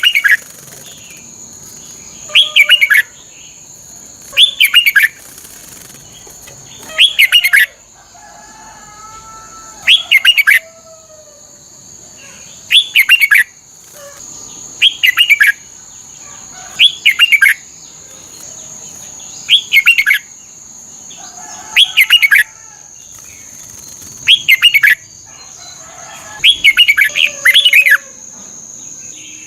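Red-whiskered bulbul singing short, loud, warbled phrases, one about every two seconds, over a steady high-pitched whine.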